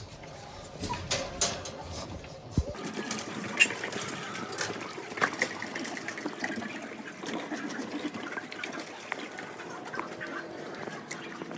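Dogs eating wet homemade food from bowls: wet chewing and smacking with many small clicks and knocks.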